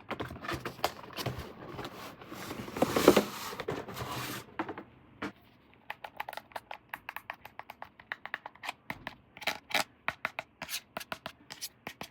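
Hands handling packaging during an unboxing: scraping and rustling for about four seconds, loudest around three seconds in, then a run of light, irregular clicks and taps.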